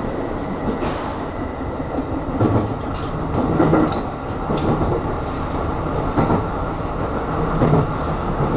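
Aonami Line electric commuter train running between stations, heard from inside the front car. A steady rolling rumble of wheels on rail, with a few irregular clicks from the wheels passing over rail joints.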